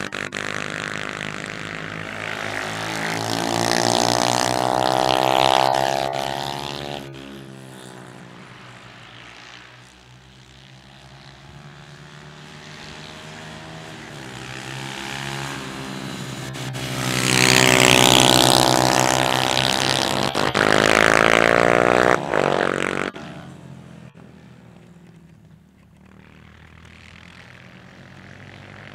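Small single-cylinder pit bike engines buzzing at high revs, rising and falling in pitch as the bikes accelerate and ease off. Loudest about four to six seconds in and again from about seventeen to twenty-two seconds, quieter in between.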